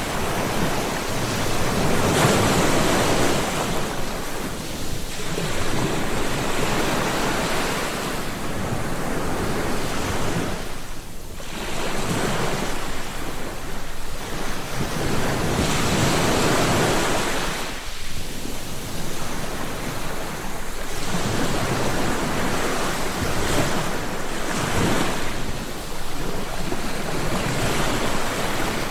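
Ocean waves breaking and washing on the shore, swelling and fading in a surge every few seconds.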